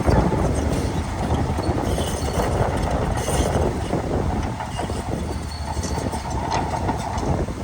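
Crawler bulldozer at work: its diesel engine running with a heavy, steady rumble, and its steel tracks clanking and rattling.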